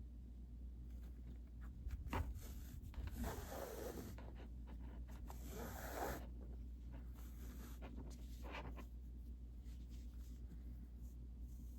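Scratchy, rustling rubbing of yarn and plastic mesh canvas being worked by hand. There are two longer swishes a few seconds in and a shorter one later, with scattered small clicks.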